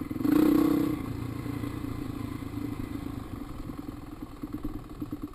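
Dirt bike engine running, with a brief rev about a quarter second in, then settling back to a steady lower throttle.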